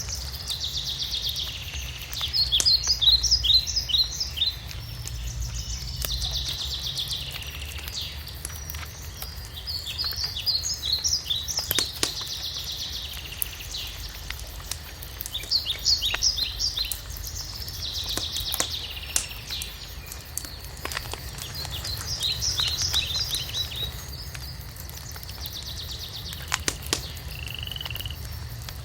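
A songbird singing the same short phrase over and over, about every four seconds: a buzzy start, then a run of quick notes. Under it a wood fire crackles with scattered sharp pops.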